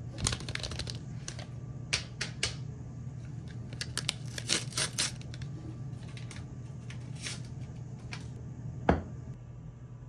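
Tea being made by hand: a tea bag and its paper wrapper rustling and tearing, with light clicks and taps of a cup, and a duller thump near the end. A steady low hum runs underneath.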